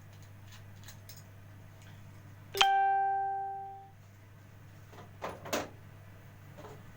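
A single chime-like ding, struck once and fading over about a second, followed a couple of seconds later by two short knocks, over a steady low hum.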